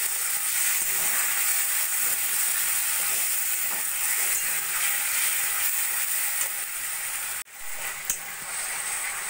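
Onion, spice and tomato masala sizzling in a metal kadai while a metal spatula stirs it, cooking down with a little water added. The sizzle drops out for a moment about seven and a half seconds in, then goes on.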